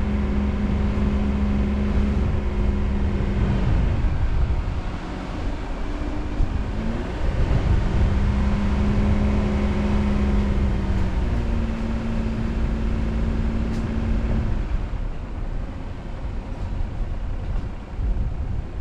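Car engine and road noise while driving: the engine's tone holds steady, drops away about four seconds in, climbs again, steps to a new pitch around eleven seconds in, and falls away a few seconds before the end, leaving a lower rumble of tyres and wind.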